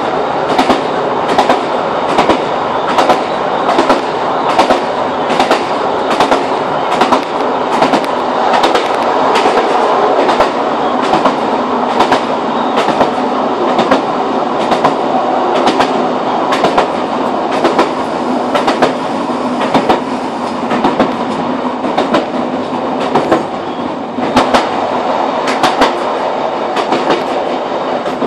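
Class 156 diesel multiple unit running at speed, heard from on board: a steady rumble with a regular clickety-clack of the wheels over rail joints, about two clicks a second.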